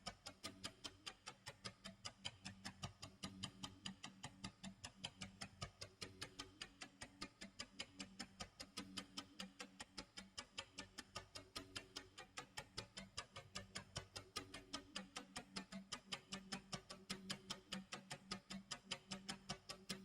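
Clock tick-tock sound effect: a steady run of quick, even ticks, about four a second, over a faint low hum with soft low tones coming and going.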